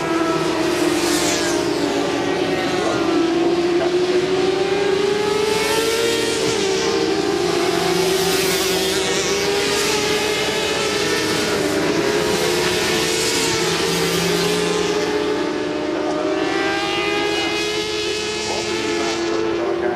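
Several 400 cc supersport racing motorcycles at high revs, engine notes rising and falling as bikes pass in quick succession, under a steady engine drone.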